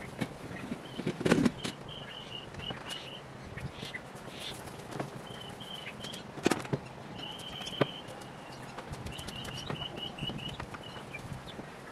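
Birds chirping in repeated phrases of quick, short high notes, with scattered sharp knocks and clatter, the loudest about a second and a half in and again past the middle.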